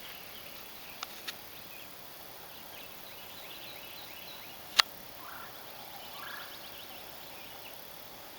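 Faint bird calls in the background, including two short calls a little past the middle. Two light clicks come about a second in, and one sharp click near the middle is the loudest sound.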